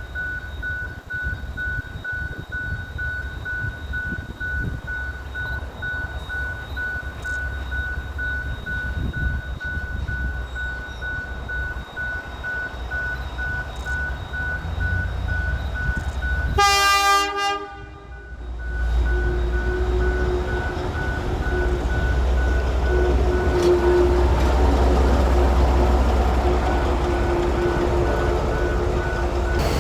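Former Emu Bay Railway 11 class diesel locomotive sounding one horn blast, about a second long, a little past halfway. Its low engine rumble then grows loud and holds as the train moves, after a quieter rumble before the horn.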